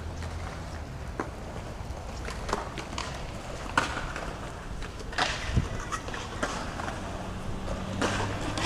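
Skateboards clacking: scattered sharp knocks of boards hitting the ground, over a steady low rumble.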